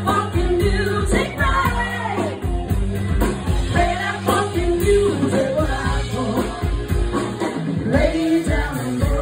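Live band playing a funk song with a steady beat and bass line, a singer's voice over it.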